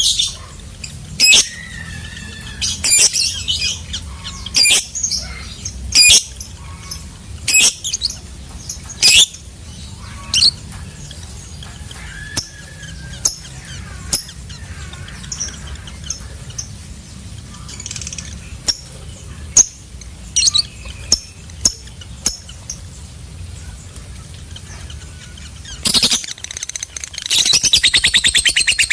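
Lovebird calling with sharp, shrill chirps every second or two, thinning out midway; near the end it breaks into a loud, fast, evenly pulsed chattering trill, the long 'ngekek' song.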